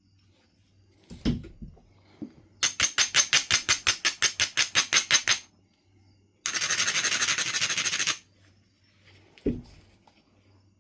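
Edge of a Knife River flint preform being rubbed with an abrading stone to prepare the platforms: a quick run of scraping strokes, about six a second, then after a pause one longer steady rub. A knock comes shortly before the rubbing and another near the end.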